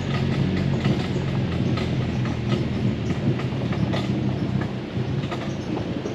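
Jeep Wrangler driving slowly over a rutted gravel trail: the engine runs steadily underneath, with frequent irregular clicks and knocks as the vehicle jolts over the ruts.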